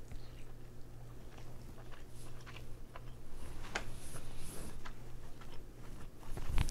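A person chewing king crab meat close to the microphone, with scattered small wet mouth clicks and smacks over a steady low hum. A louder thump comes near the end.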